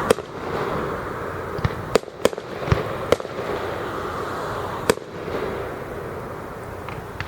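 Fireworks bursting: sharp bangs, several in quick succession between about two and three seconds in and another about five seconds in, over a continuous crackling hiss that thins out near the end.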